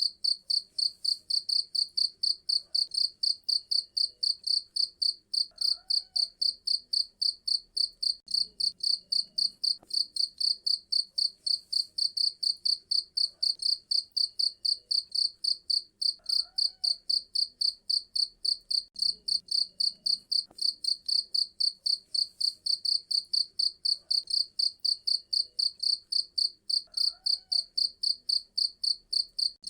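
Cricket chirping steadily in a fast, even rhythm, about three high-pitched chirps a second.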